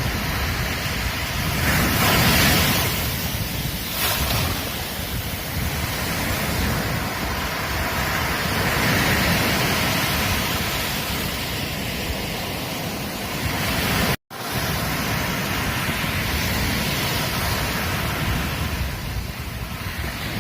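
Ocean waves breaking and washing onto a beach, the surf swelling and falling back every few seconds. The sound cuts out for an instant about fourteen seconds in.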